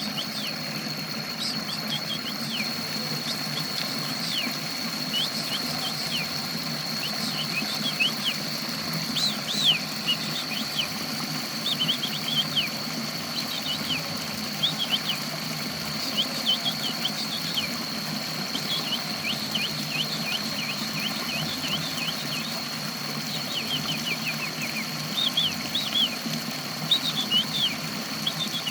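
A small songbird chirping in repeated clusters of quick, short falling notes, over a steady mechanical hum with a constant high-pitched whine.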